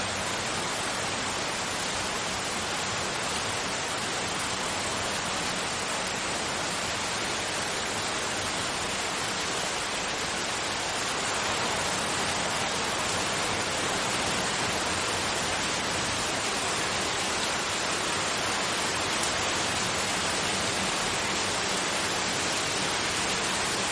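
Steady white noise: an even, unbroken hiss with no rhythm or tones, growing slightly louder about halfway through.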